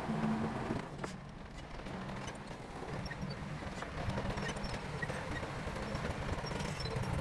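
Bulldozer's diesel engine running, easing off about a second in and then picking up again, with scattered metallic clanks and knocks from the machine.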